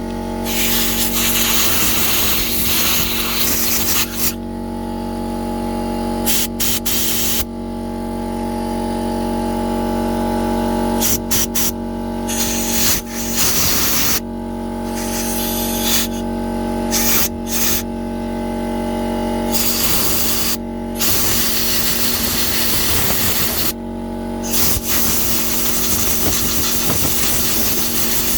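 Compressed air blown through a lawn mower carburettor's jets and passages to clean them: a run of loud hissing blasts of varying length, some long and some short, over a steady mechanical hum.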